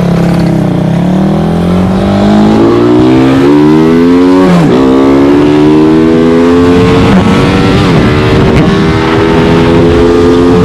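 Modified CG200 single-cylinder four-stroke motorcycle engine accelerating hard. The revs climb, drop sharply at a gear change about four and a half seconds in, then climb again and hold high, with brief dips near the end.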